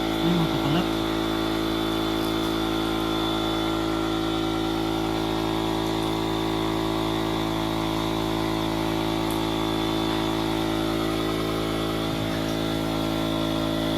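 Small electric air pump running at a constant speed with a steady, unchanging motor hum, of the kind used to inflate an air-beam tent.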